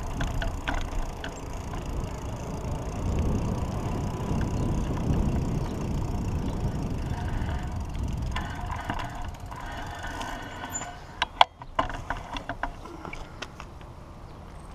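Low wind rumble on the microphone during a bicycle ride, easing off after about eight seconds, then a few sharp clicks and knocks about eleven seconds in, the loudest sounds here.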